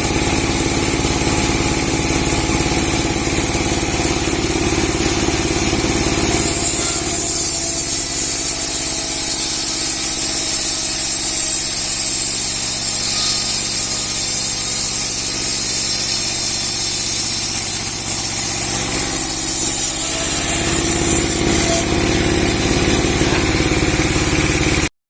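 Engine of a 30-horsepower sawmill with a 60 cm steel blade running. From about seven seconds in, a steady high hiss of the blade ripping a large log takes over and the engine's low hum drops back. At about twenty seconds the hum returns, and the sound cuts off suddenly just before the end.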